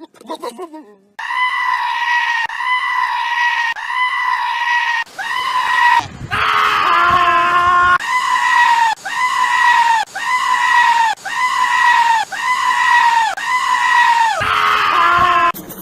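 Goat screaming over and over, high-pitched calls about a second each, repeated back to back. A longer, lower call breaks in about six seconds in.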